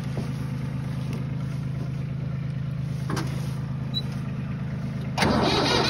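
Diesel tractor engine running steadily at a low idle; about five seconds in it suddenly gets much louder, with a fast, even clatter.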